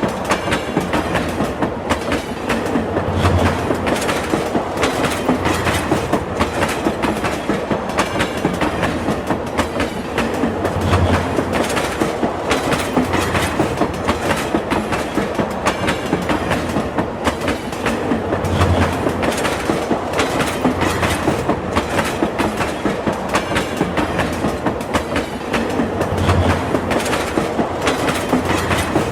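Train wheels running over the rails of a long railway bridge: a steady clickety-clack, with a deeper thump about every eight seconds.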